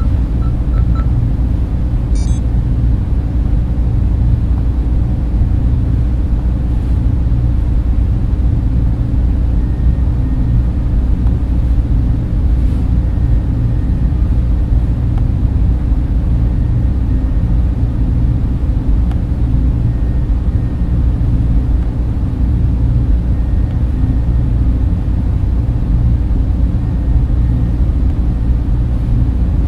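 Steady data-center ambience: the dense, even rush of server and cooling fans, heaviest in the low end, with a faint steady whine above it and a brief faint chirp about two seconds in.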